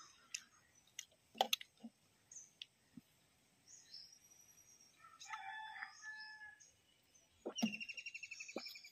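Birds calling: high chirps, then a longer pitched call with several tones about five seconds in, and a rapid trill near the end.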